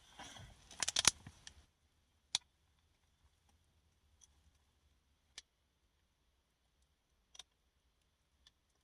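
Sharp clicks and taps: a quick cluster of them about a second in, then single clicks two to three seconds apart over near silence.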